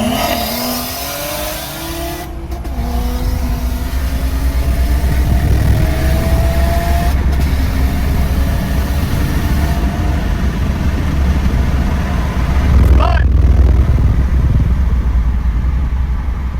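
BMW turbocharged straight-six pulling hard at full throttle, its note climbing through the revs. There are three brief breaks in the sound as it shifts up through the gears, over heavy low road and wind rumble.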